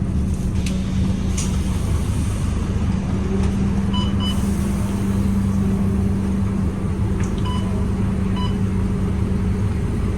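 City bus engine running under way, heard from inside the cabin: a low rumble with a strong steady hum, which the uploader calls an odd engine sound. Two pairs of short faint beeps sound about four seconds in and again near eight seconds.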